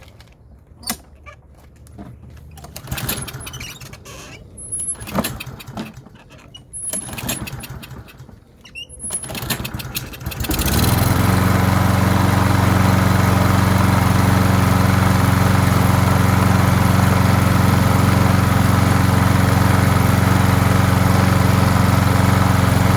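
Scattered clicks and knocks of handling. About ten seconds in, a small lawn mower engine starts abruptly and runs at a steady speed, running well after its old, gummed-up fuel was cleaned out.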